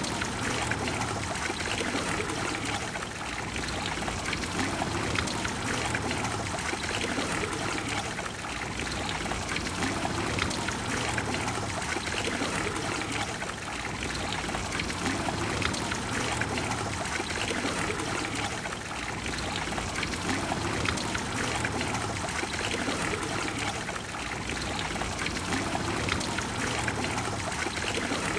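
Trevi Fountain water splashing and pouring into its basin in a steady, dense rush that swells gently every few seconds.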